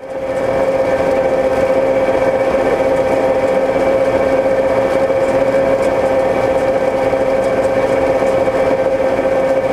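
A machine running at a steady speed: a loud, even whir with a strong steady hum.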